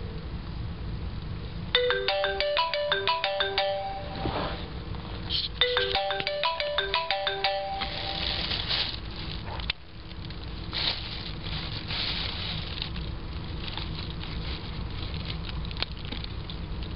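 iPhone ringing with an incoming call: a melodic ringtone plays two phrases of quick notes, then stops about ten seconds in when the call is answered. A steady low rumble and hiss sits under it throughout.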